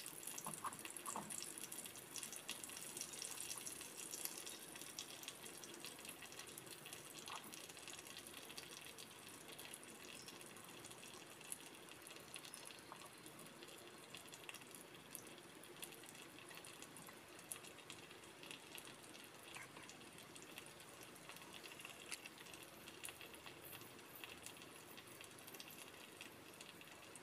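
Prawns frying in hot oil in a clay pan: a faint, steady sizzle with small crackles and pops. It is louder for the first few seconds, then settles lower.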